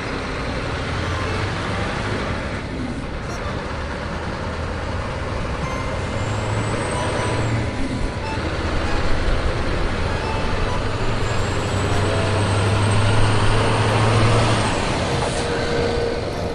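A heavy truck's engine running steadily with a low hum and a broad rumbling noise, louder in the second half, with two faint high whistles partway through.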